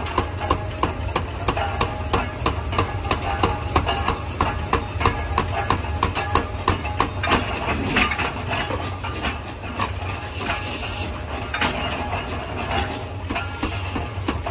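Repeated hammer blows on hot metal during the forging of a tractor gear, struck rapidly and evenly at about four a second over a steady low machinery hum. The blows thin out over the last few seconds, leaving a hissing noise.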